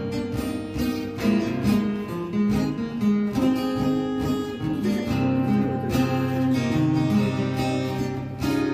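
Acoustic guitar strummed and picked in chords, a song's instrumental opening without singing.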